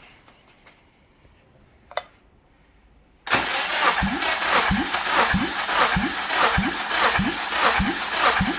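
Honda K24A 2.4 L four-cylinder engine being cranked over by its starter motor for a compression test, not firing. The cranking starts a little over three seconds in, a steady whirr with a regular beat about one and a half times a second. It is preceded by a single sharp click about two seconds in.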